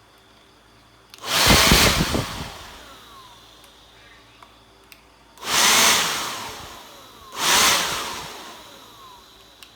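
Handheld electric blower switched on three times in short bursts, each time running up quickly and then winding down with a falling whine after release.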